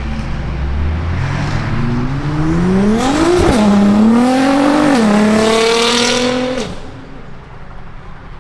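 A car accelerating hard past with the engine note rising, one upshift about three and a half seconds in, then rising again and holding before the driver lifts off near seven seconds.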